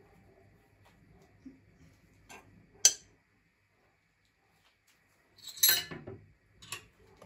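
Kitchenware clinking: a few separate light taps, one sharp clink about three seconds in, and a short clatter of knocks near the six-second mark.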